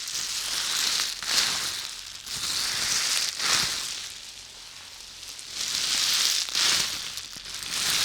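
Close-miked ASMR trigger sounds: soft hissing, rustling swells that rise and fade about every one and a half to two seconds, with no sharp taps.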